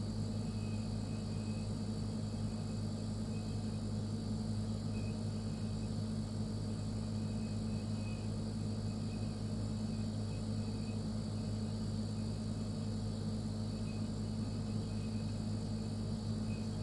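Refrigerator running with a steady low hum and a fainter high whine above it, unchanging throughout.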